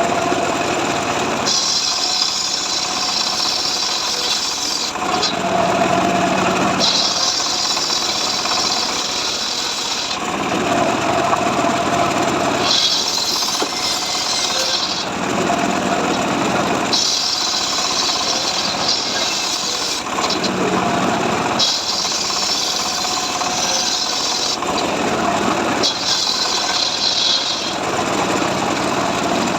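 Stihl MS 382 two-stroke chainsaw running without pause, cutting dry mahogany. Its tone shifts back and forth every two to three seconds as the bar works through the wood.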